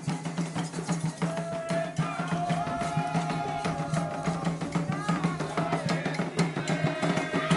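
Candomblé ritual music: atabaque drums beating a dense rhythm, with voices chanting a song over them from a little over a second in.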